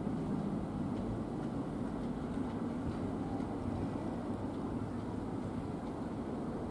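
A London Overground Class 378 Capitalstar electric train rolling slowly over pointwork as it approaches the station, a steady low rumble.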